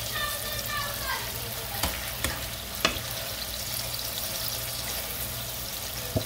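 Ackee and saltfish sizzling in a frying pan while a spoon stirs it. The spoon clicks against the pan a few times around two to three seconds in and again near the end.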